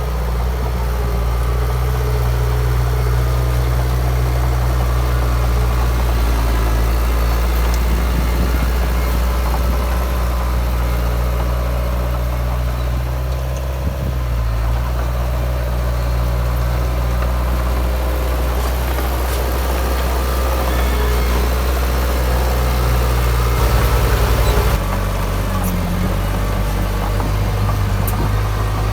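Heavy diesel engine of earthmoving machinery running with a steady low drone. About 24 s in it briefly gets louder and rougher, and afterwards its pitch settles at a different level.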